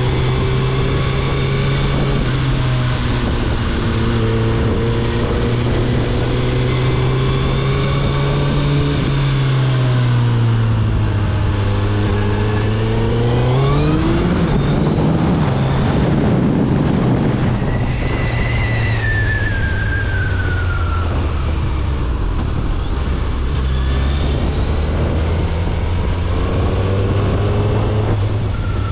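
Third-generation Suzuki Hayabusa's 1,340 cc inline-four on its stock exhaust, heard from the moving bike: the engine runs at a steady low pitch, revs up sharply about halfway through with a rush of wind on the microphone, then settles back to a steady run. A high falling whine follows briefly.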